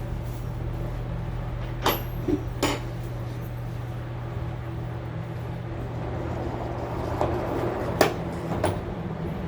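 Steady low hum of a barn ventilation fan, with four sharp knocks or clanks, two about 2 s in and two near the end.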